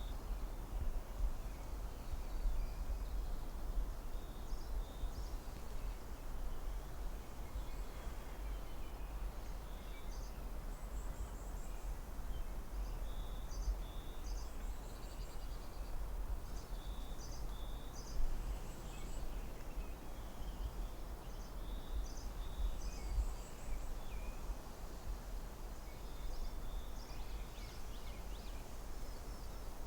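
Forest ambience: a steady low rumble and hiss, with birds giving short high chirps in small repeated groups every few seconds.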